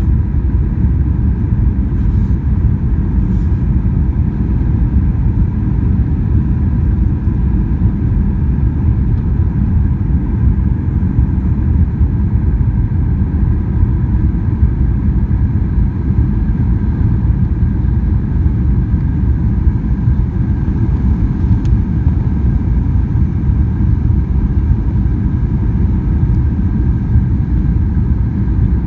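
Steady rumble of a jet airliner's engines and airflow heard inside the passenger cabin in flight, even in level throughout with a faint hum of tones above it.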